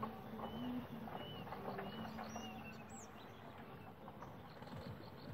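Small birds chirping outdoors: short, arched chirps about twice a second, fading after the first few seconds. A faint, rapid, even ticking comes in during the second half.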